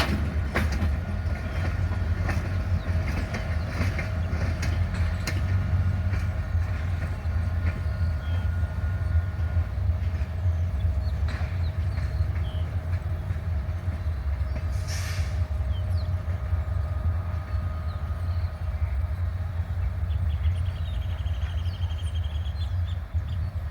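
A GT22 diesel-electric locomotive running steadily with a deep, even drone, with a few sharp metallic clicks near the start.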